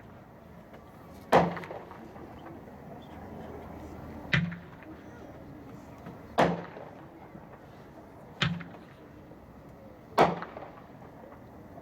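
Consumer fireworks cake (Tongues of Fire, a 23-shot 500-gram cake) firing: five sharp bangs about two seconds apart, each trailing off briefly.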